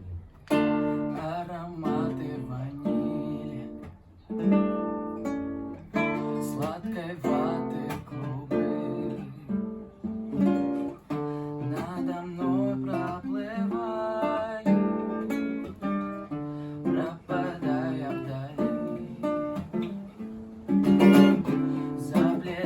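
Acoustic guitar playing an instrumental introduction, picked notes and chords struck one after another and left to ring, with louder strummed chords near the end.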